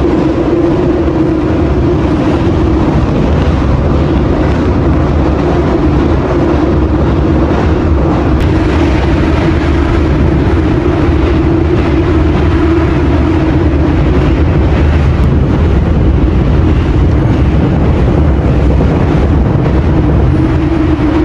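Loud, steady vehicle running noise with a constant low hum and rumble.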